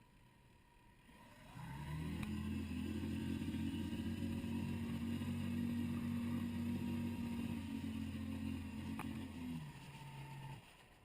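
Boat engine starting up about two seconds in and running at a steady pitch, then dropping in pitch as it throttles down near the end and cutting off shortly after.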